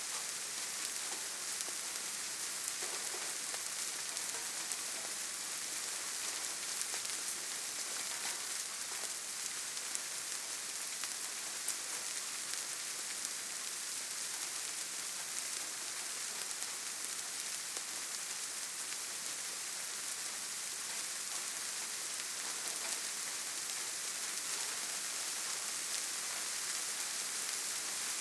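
Steady rainfall, an even hiss with many fine drop ticks.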